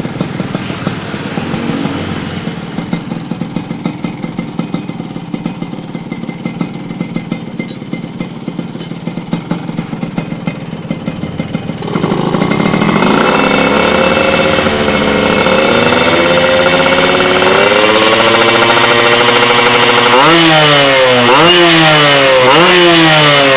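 Yamaha RX-King's two-stroke single-cylinder engine running through an aftermarket stainless under-belly 'kolong cobra' exhaust: it idles unevenly at first, then about twelve seconds in it is revved up and held at higher revs, and near the end the throttle is blipped three times in quick succession.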